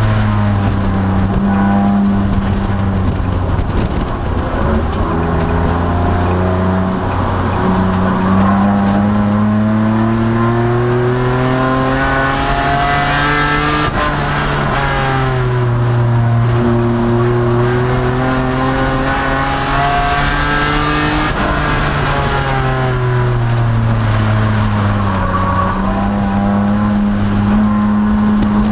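2002 Nissan Maxima's 3.5-litre V6 racing at full throttle. Its pitch climbs, drops sharply at a gear change about halfway through, sinks away for a few seconds, then climbs again near the end.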